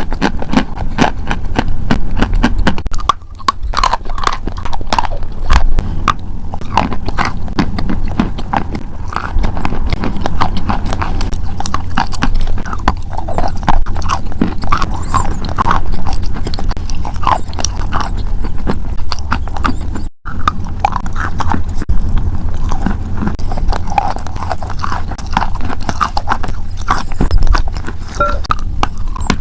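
Crunching and chewing of something hard and crisp, a dense run of sharp crunches with a brief break about twenty seconds in.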